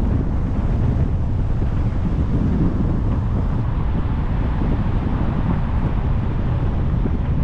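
Wind buffeting the microphone of a camera on a moving car, a steady low rumble mixed with the car's road noise.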